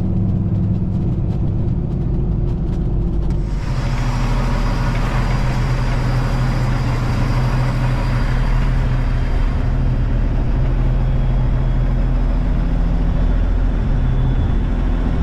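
Peterbilt semi truck's diesel engine running steadily as the truck drives slowly, heard from the cab. About three and a half seconds in, a louder rushing noise joins it and stays.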